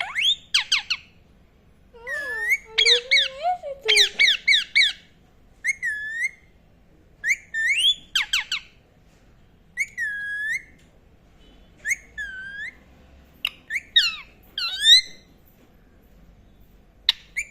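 Indian ringneck parakeet chirping and whistling: short, sharply swooping calls, with a dense run of rapid calls a few seconds in and then single calls every second or two.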